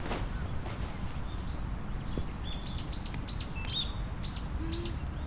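A bird calling: a quick series of short arched chirps, about three a second, starting about a second and a half in, over a steady low background rush.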